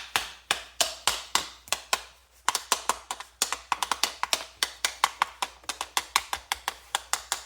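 Rapid light tapping on the box fan motor's shaft, about five sharp strikes a second with a couple of short pauses, done to settle the shaft in its sleeve bearings.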